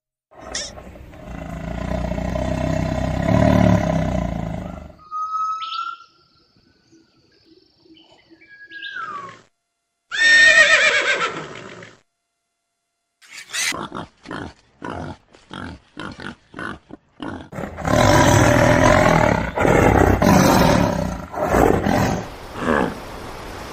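Several different animal sounds one after another with breaks between them: a long roaring call lasting about five seconds, a short loud call, a rapid run of sharp clicks, then a long stretch of noisy calling.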